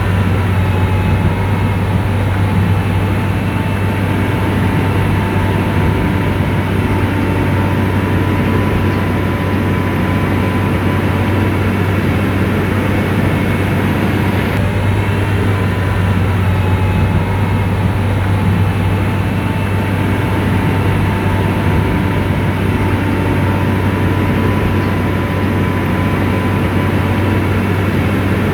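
Komatsu bulldozer's diesel engine running steadily, a deep even drone with a thin whine over it.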